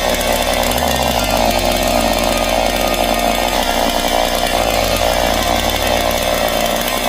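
Two-stroke chainsaw running steadily at high revs, with a low electronic music bass line underneath.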